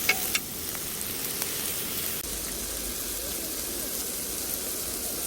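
Makchang sizzling steadily as it fries, with two sharp clicks at the very start.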